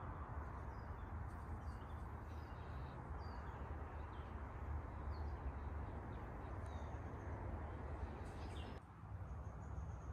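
Birds chirping, short high calls scattered throughout, over a steady low rushing background noise that drops out briefly near the end.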